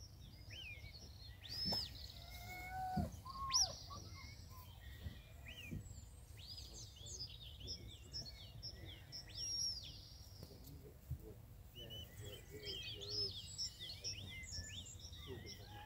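Small birds singing: many short chirps and trills throughout, with a few louder gliding calls around two and three and a half seconds in, over a steady low outdoor rumble.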